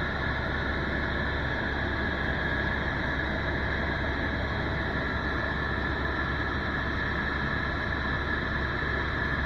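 Tour helicopter in flight: a steady, unchanging drone of engine and rotor noise.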